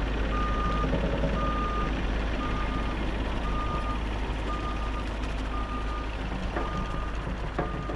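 Backup alarm on a Bobcat E50 compact excavator beeping about once a second, a steady high tone over the machine's diesel engine running under load, as it travels in reverse. Two sharp knocks come near the end.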